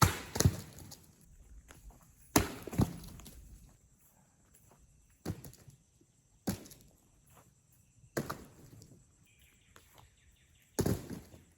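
A series of sharp knocks and thuds at irregular intervals, about eight over the span, each dying away quickly.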